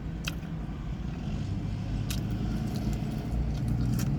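Steady low rumble, like a vehicle's engine heard from inside, with three short faint clicks.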